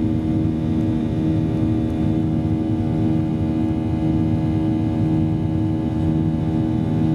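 Boeing 737-800 cabin drone from its CFM56-7B jet engines during the climb: a steady rumble with several humming tones held at a constant pitch.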